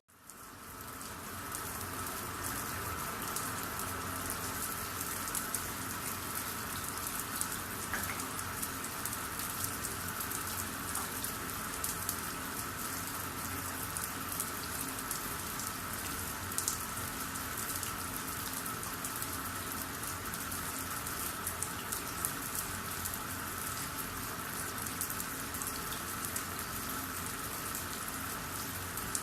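Steady rain falling: a fine patter of drops over an even hiss, fading in at the start and then holding steady.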